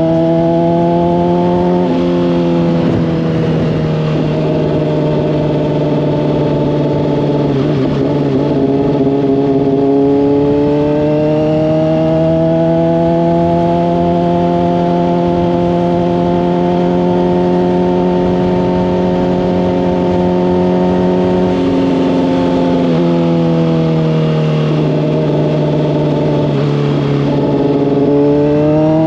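Honda CBR600RR's inline-four engine through a Hotbodies Stinger slip-on exhaust, running steadily under light throttle with its pitch slowly rising and falling. The pitch drops abruptly about two seconds in and again a little past the twenty-second mark, as with gear changes, and climbs again near the end.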